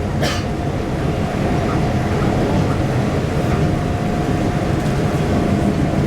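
Busan Metro Line 1 train running between stations, heard from inside the car: a steady rumble of wheels on the rails with a faint steady whine, and a short hiss just after the start.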